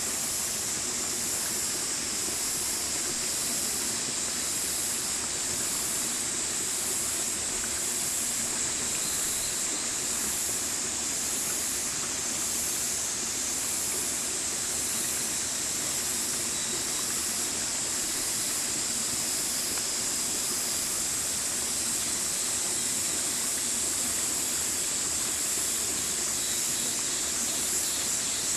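Stream water flowing steadily: a continuous, even rushing hiss with a bright high edge and no distinct splashes.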